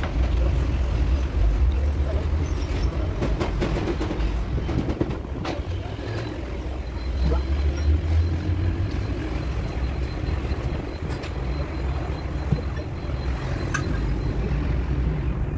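Concrete mixer truck's diesel engine running with a steady low rumble, with a few sharp clicks over it.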